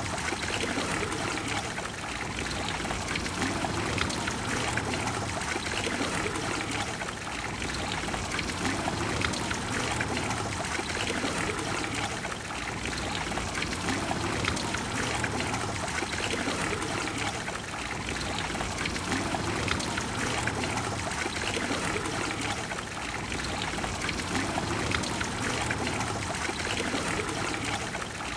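Water of the Trevi Fountain flowing and splashing in a steady, unbroken rush that swells gently every few seconds.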